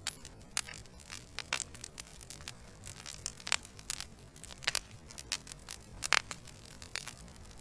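Wood fire in a fireplace crackling: irregular sharp pops and snaps from burning logs over a low steady rush, with a louder pop about six seconds in.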